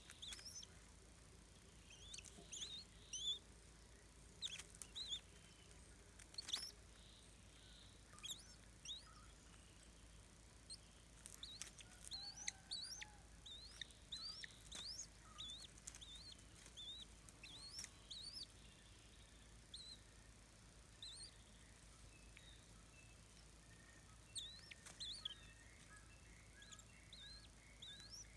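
Birds chirping: many short, high chirps scattered throughout, with a few sharp clicks among them, over a faint steady background.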